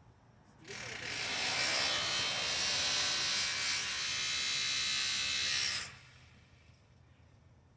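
Electric sewing machine running at a steady speed for about five seconds, then stopping.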